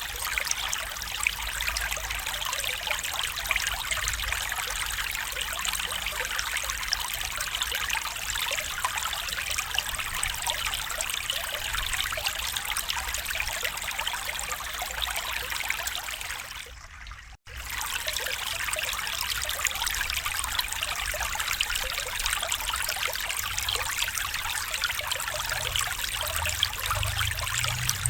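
A stream flowing and trickling steadily. The sound drops away to near silence for about a second around two-thirds of the way through, then comes straight back.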